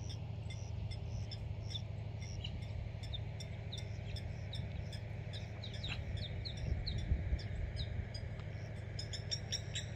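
Wild birds chirping and calling in many short, quick notes, the chorus growing busier near the end, over a low steady rumble.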